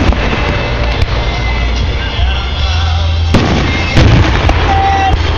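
Aerial fireworks going off over a heavy continuous rumble of booms, with sharp loud reports about a second in and twice more, close together, between three and four seconds in.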